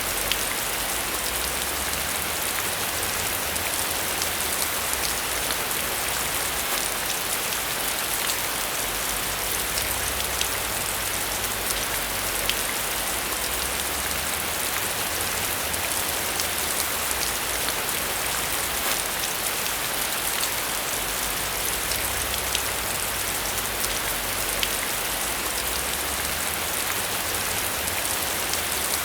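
Steady, heavy rain falling on a surface, a dense hiss with many fine drop ticks and a faint low rumble underneath.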